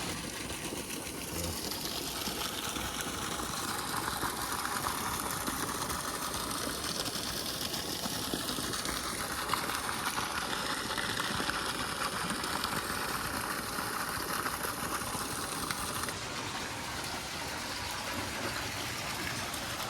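Steady rush of flowing water. A high, even hiss above it stops abruptly about sixteen seconds in.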